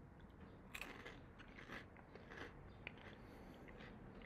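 A person chewing crisp ube-filled pillow crackers, heard as a few faint, scattered crunches with the mouth closed.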